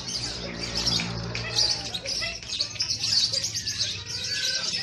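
Several caged lovebirds chattering at a songbird contest: a dense, continuous stream of rapid high-pitched chirps and trills, with a low hum underneath in the first couple of seconds.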